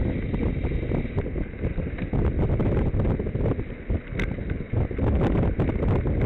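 Wind buffeting the microphone of a bicycle ride camera, a heavy rumble that rises and falls and eases briefly around the middle, with a few small clicks.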